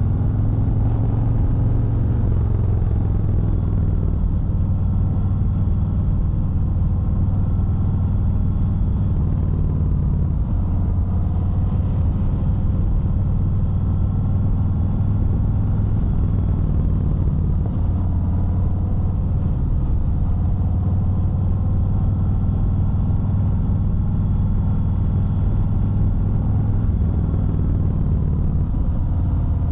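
Harley-Davidson Fat Bob 114's Milwaukee-Eight 114 V-twin running steadily while the bike is ridden: a low, even engine note that rises and falls slightly in pitch as the speed changes.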